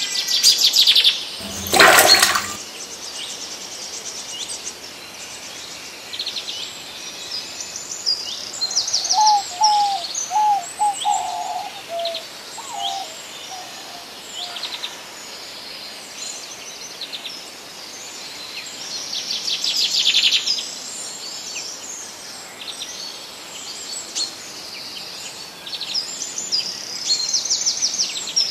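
Small birds chirping and trilling repeatedly around a flooded rice field, with a brief loud rush of noise about two seconds in and a lower run of quick call notes around ten seconds in.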